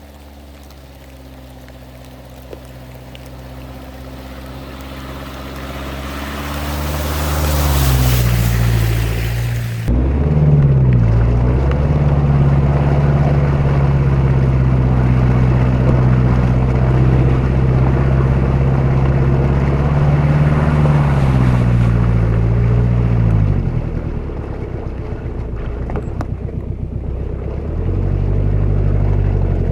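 A Jeep Cherokee XJ's VM Motori 2.5 turbo diesel four-cylinder engine pulling under load off-road, its note building over the first several seconds and holding steady and strong after an abrupt change about ten seconds in. It drops back a little past twenty seconds and picks up again near the end.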